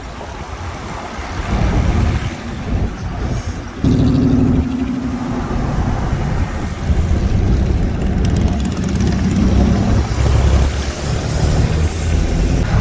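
Classic cars' engines running as they cruise by on the street, with a louder engine coming in suddenly about four seconds in.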